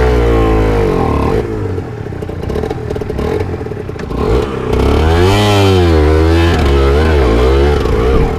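A 125 cc sport motorcycle engine running while riding. It is loud, eases to a quieter stretch for a few seconds, then comes back loud with the pitch rising and falling as it revs.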